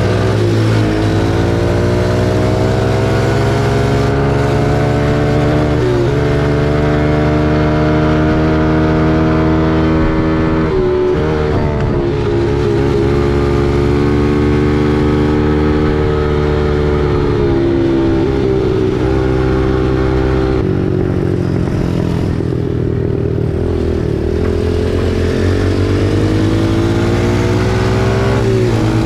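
Small four-stroke single-cylinder dirt bike engine under way, its pitch climbing as it is revved and breaking off at gear changes several times, then settling to a steadier pace near the end.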